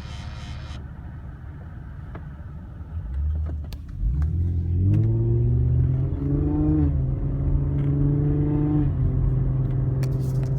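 Infiniti FX35's 3.5-litre V6 running with a low rumble, then about four seconds in its pitch rises and holds at a higher, steady hum with a whine above it, as when the engine is revved or the car pulls away.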